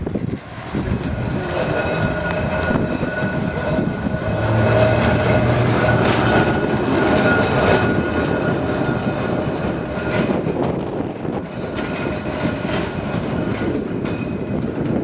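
Blackpool heritage tram running along the track, its wheels clicking over the rail joints, with a steady whine above the rumble.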